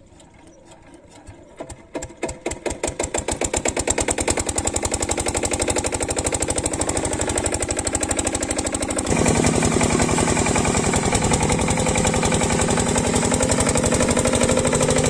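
8 hp diesel engine of a water pump set starting up: slow chugs about a second in that quicken into a steady running beat within a few seconds. About nine seconds in it runs louder.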